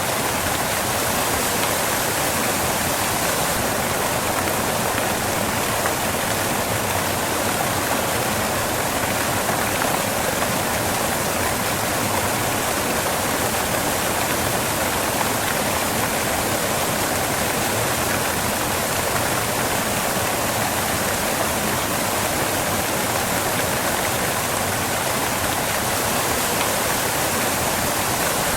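Waterfall water crashing onto rocks, a steady, even rush of falling water.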